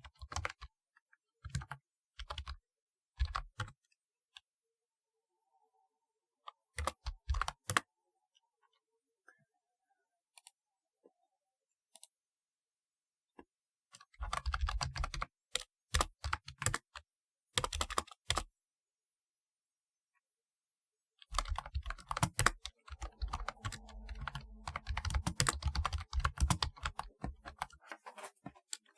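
Typing on a typewriter-style keyboard, its keys clicking. A few short bursts of keystrokes come in the first eight seconds, then a pause of several seconds, a run of typing from about halfway, and a longer stretch of fast continuous typing near the end.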